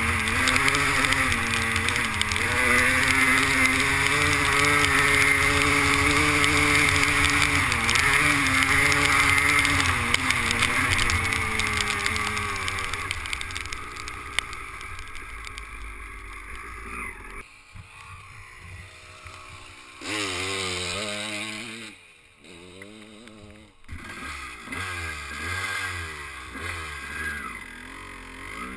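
Two-stroke 250 motocross bike engine running hard, its pitch wavering with the throttle, loud for about the first ten seconds and then fading away. Through the second half a quieter two-stroke engine revs up and down, with a short lull near the end.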